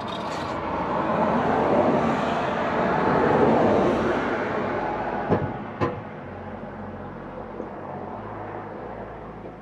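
A vehicle going past: a broad rushing noise that swells for about three seconds and then fades away, with two sharp knocks partway through.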